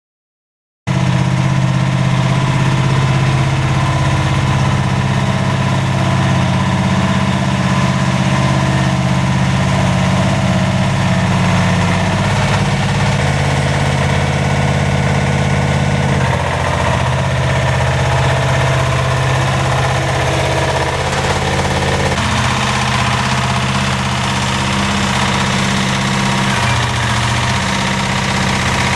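A homemade skid steer loader's 20 hp diesel engine running steadily. It cuts in suddenly about a second in, and its note shifts a few times, near the middle and again about two-thirds through.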